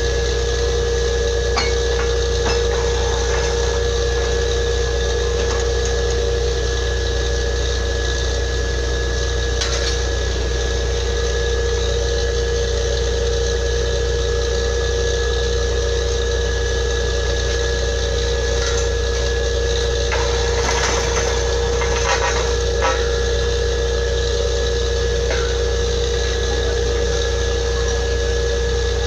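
Borewell drilling rig's engine running steadily, a constant low hum with a steady whine over it and scattered faint clicks and knocks.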